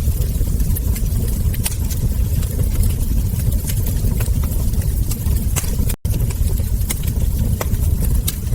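Wood fire burning, with irregular sharp crackles and pops from the logs over a steady low rumble. The sound cuts out for an instant about six seconds in.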